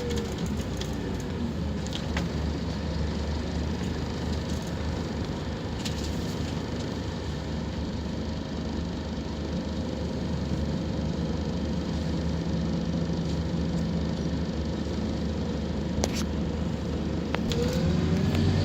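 Scania K230UB Omnilink bus's diesel engine running steadily under way, with scattered rattles and clicks. A whine falls in pitch at the start, and near the end a whine rises and the engine grows louder as the bus accelerates.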